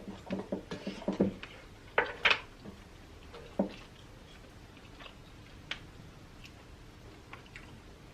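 Close-miked chewing of baked lobster tail meat, a quick run of soft rhythmic chews in the first second and a half. A few sharp clicks follow around two and three and a half seconds in, then only faint ticks.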